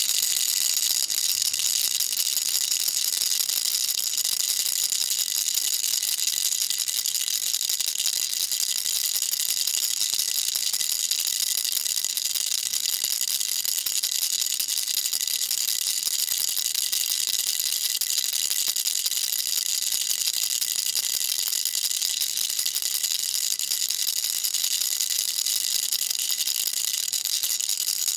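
Baby rattle shaken continuously: a steady, dense, high-pitched rattle made of many fine clicks, without pause.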